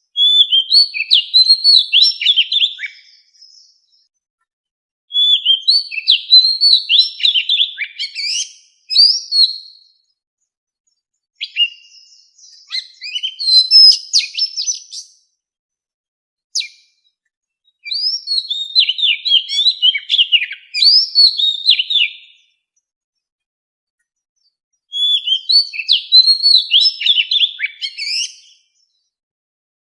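Oriental magpie-robin singing its wild-type song. It comes in five phrases of rapid, varied whistled notes, each about three to four seconds long, separated by silent pauses.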